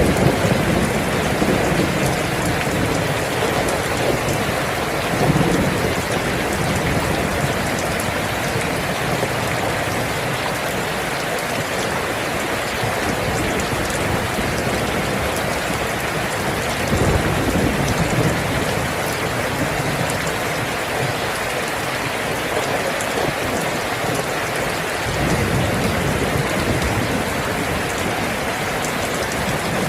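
Steady heavy rain falling, with low rolls of thunder swelling up a few times: near the start, about five seconds in, around seventeen seconds and again near twenty-five seconds.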